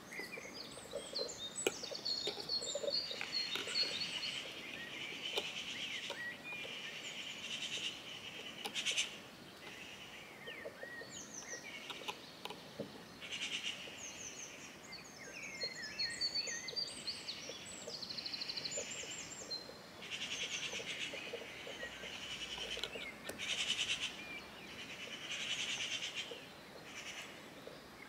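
Small songbirds chirping and singing: a busy run of short, high calls, quick pitch glides and rapid trills that overlap, over a faint outdoor hiss.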